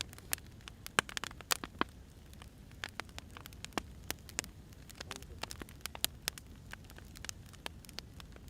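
Burning firewood crackling, with sharp irregular pops and snaps over a steady low rumble of the fire.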